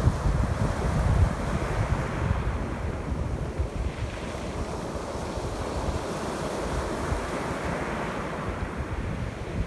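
Ocean waves breaking and washing up the shore, swelling and easing in the hiss, with strong wind buffeting the microphone. The wind rumble is heaviest in the first couple of seconds.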